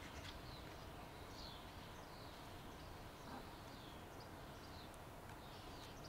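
Faint small-bird chirps, short high notes that fall in pitch, repeated every second or so over a low steady background rumble.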